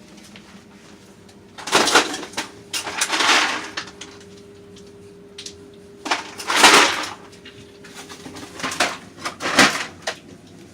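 Ice cubes being fetched: rattling and clattering, louder about six and a half seconds in, then a few sharp clinks near the end as cubes drop into the cup of coffee. A steady hum runs underneath from about two seconds in.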